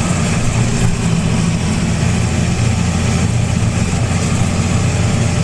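Farm tractor engine running steadily as it drives across the field, a low drone with an even wash of mechanical noise over it.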